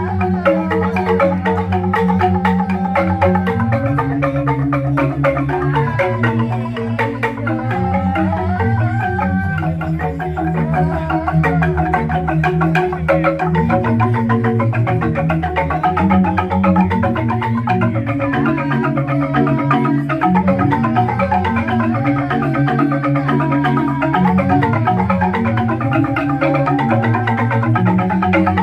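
Balinese jegog ensemble of bamboo tube xylophones playing fast interlocking mallet patterns over deep ringing bass notes from the large bamboo tubes.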